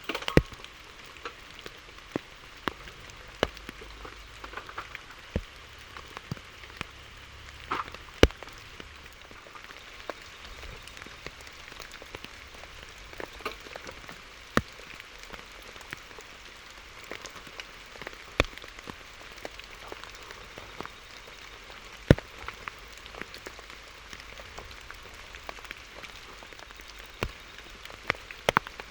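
Steady rain falling, with scattered heavier drops landing as sharp single taps at irregular intervals.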